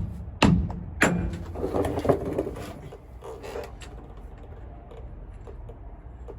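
Two sharp knocks about half a second apart, then a second or so of rattling clatter and a brief scrape, as of metal tools or parts being handled.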